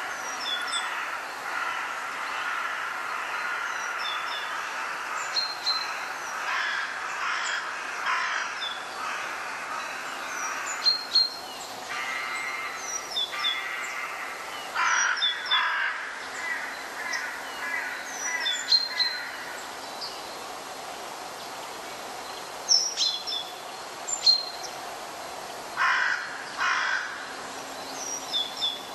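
Birds calling: short, harsh caw-like calls repeated at irregular intervals, mixed with many brief high chirps, over a steady background hiss.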